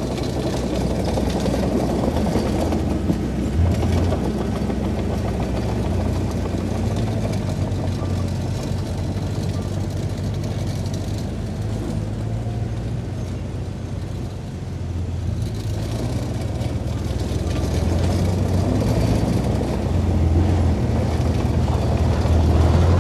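Diesel engine of heavy earthmoving machinery running steadily with a low drone, growing louder over the last several seconds.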